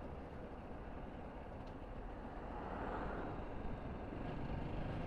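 Riding motorcycle: wind rushing over the microphone over a low engine and road rumble, swelling once about three seconds in.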